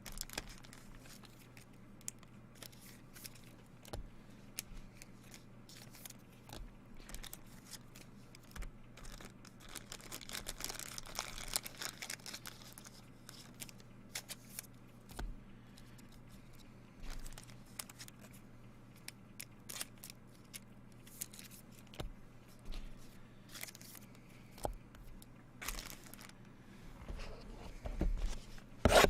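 Trading cards and their packaging handled by hand: scattered small clicks and taps, a longer stretch of tearing and crinkling around ten to twelve seconds in, and louder crinkling near the end, over a faint steady hum.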